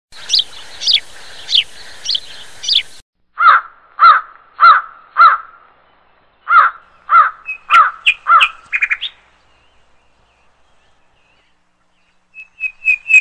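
Birds calling: high chirps at first, then two runs of about four loud, repeated calls each, spaced a little over half a second apart, ending in a quick flurry of notes. After a few quiet seconds, a fast run of short whistled notes starts near the end.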